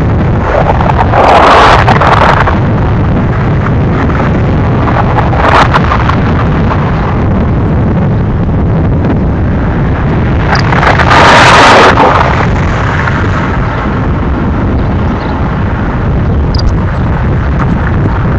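Union Pacific manifest freight train's boxcars rolling past, a steady heavy rumble of wheels on rail. There are louder rushing swells about a second in and again about eleven seconds in.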